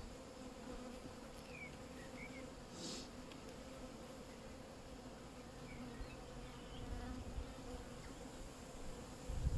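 Honeybees buzzing around an open hive during an inspection: a steady, faint hum.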